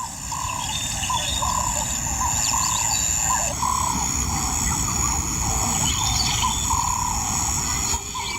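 Bush ambience: a bird calls repeatedly, short rising-and-falling notes about twice a second, over a steady high-pitched drone and a low rumble.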